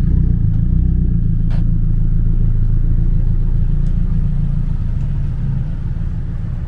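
Nissan Silvia's exhaust giving a steady, low rumble at low revs as the car rolls by, easing off slightly near the end.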